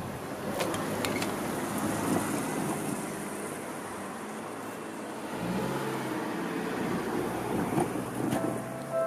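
Electric commuter train running on the rails: a steady rumble with a few sharp clicks in the first second or so, and a low hum setting in about halfway.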